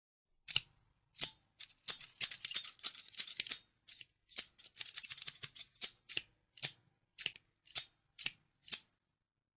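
Scissors snipping: a run of short, crisp cuts that come quickly and close together in the first half, then slow to single snips about every half second near the end.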